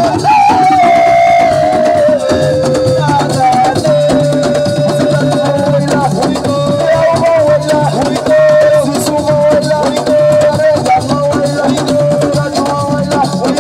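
Senegalese assiko (siko) band music: dense drumming and shaker rattles under a long, wavering melody line held mostly on one note.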